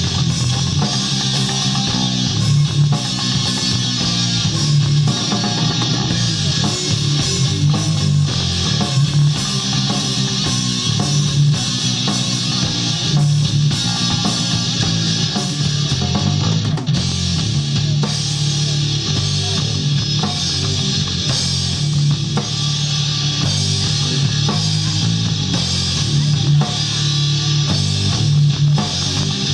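Live rock band playing: guitars over a steady drum-kit beat, continuous and loud.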